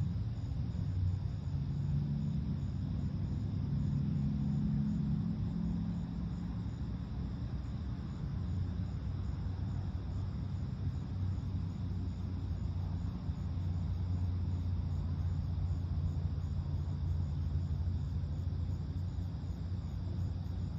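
Steady low rumble of distant road traffic, its pitch drifting, with faint, evenly repeated insect chirping high above it.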